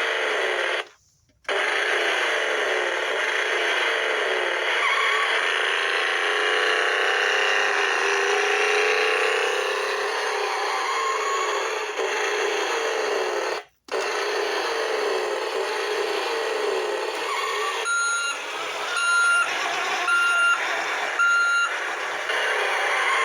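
Electronic engine-revving sound effects from a toy monster truck's small built-in speaker, thin with no low end, cutting off abruptly twice as the sound clips restart, then four short electronic beeps near the end.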